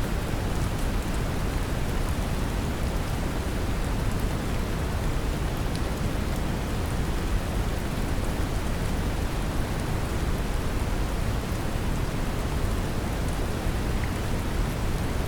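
Steady brown noise, a deep even rushing hiss weighted toward the low end, mixed with the patter of gentle rain with a few faint drop ticks.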